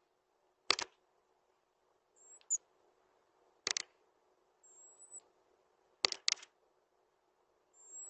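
Small bird calling out of sight: three thin, very high whistled notes that hold one pitch, mixed with four short sharp ticks, two of them in quick succession about six seconds in.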